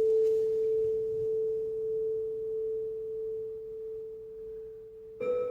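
A single pure ringing tone that slowly fades. A little over five seconds in it is struck again, louder and at a slightly higher pitch, with faint overtones above it.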